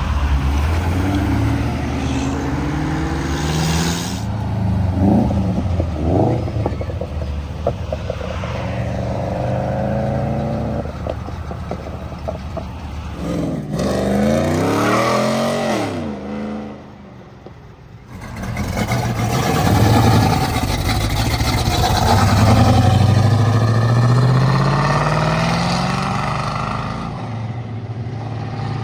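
Several muscle and classic car engines accelerating away one after another, each pull a rising engine note, with a short lull about two thirds of the way through.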